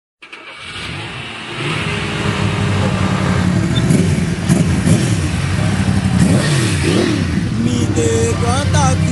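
Sport motorcycle engine being revved, its pitch rising and falling several times, fading in over the first two seconds.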